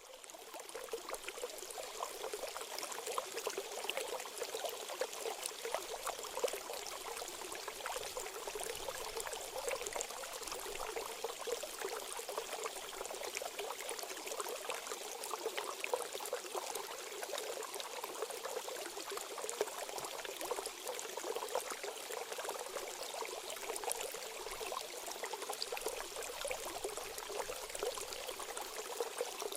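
Running water trickling and splashing steadily, like a small stream, with no bird song.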